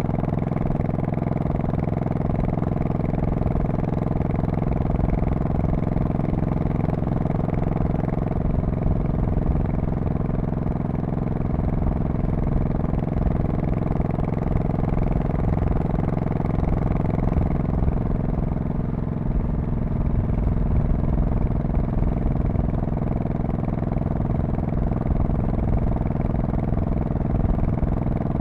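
2002 Honda Shadow Spirit VT1100C's V-twin engine and exhaust running steadily under way, with an even engine note and no sharp revving.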